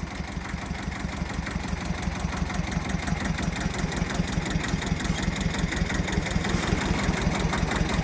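Tractor engine running steadily while towing, with a regular low pulse of several beats a second, growing gradually louder.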